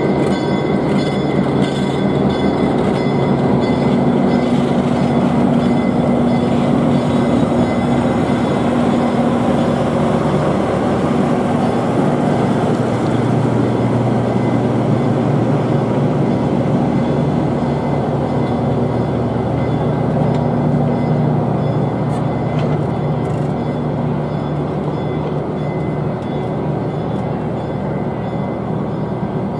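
Passing train: a Western Pacific diesel locomotive running steadily, then passenger coaches rolling by on the rails, the sound easing slightly near the end.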